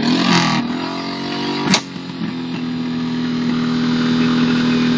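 Honda VTX1800 V-twin motorcycle engine running at steady, fairly high revs, its pitch climbing a little before holding level. A single sharp crack sounds just before the two-second mark.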